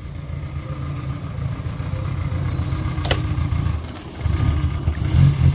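Small hatchback's engine idling with a steady low rumble that gets a little louder from about four seconds in, with one sharp click about three seconds in.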